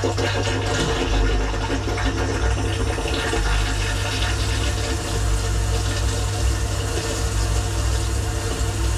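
Dishwasher running its wash cycle, heard from inside the tub: water spraying and splashing steadily over the hum of the circulation pump.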